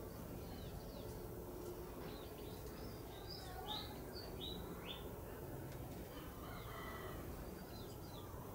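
Birds chirping in short, falling chirps, a quick cluster of them about three to five seconds in, over a steady low background hiss.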